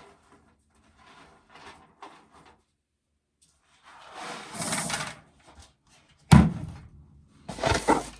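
Dry ear corn being shelled by hand: faint clicks and rustles, a longer scraping swell about halfway through, then a sharp knock a little after six seconds followed by another short burst of scraping.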